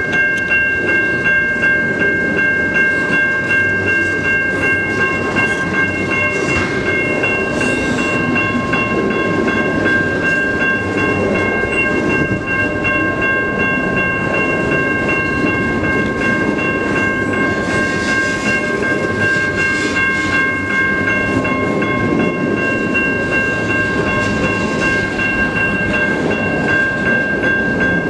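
Freight train cars rolling past over a grade crossing, wheels clicking over the rail joints, with a steady rumble and several high, steady ringing tones held throughout.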